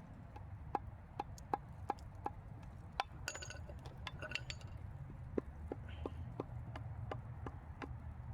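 Hand tools clicking and clinking on metal engine parts: a run of sharp clicks about three a second, then a few ringing metallic clinks a little past the middle, over a steady low hum.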